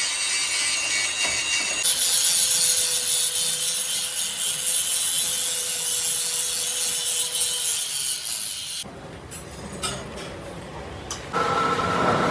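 Steady rasping, hissing sound of metal being cut or abraded during crankshaft machining. It cuts off suddenly about nine seconds in, and after a short lull a different machine sound with a steady tone starts near the end.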